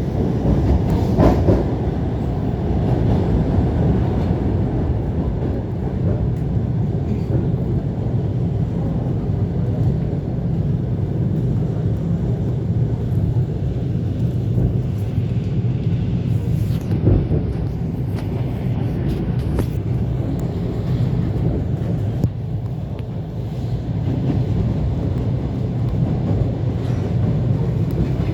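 ET2 electric multiple unit running between stations: a steady rumble of wheels on rails, with a couple of sharper knocks, about a second in and again about seventeen seconds in.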